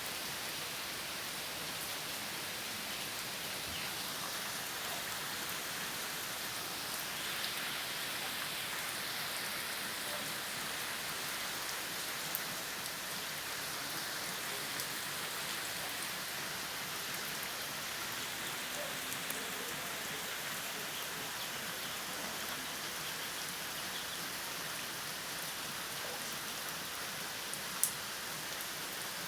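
Steady rain falling, an even hiss with a few sharp drop hits, the loudest one near the end.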